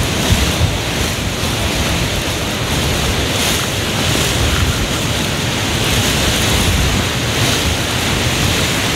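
Hurricane-force wind blowing steadily with driving rain, the gusts buffeting the microphone with a low rumble.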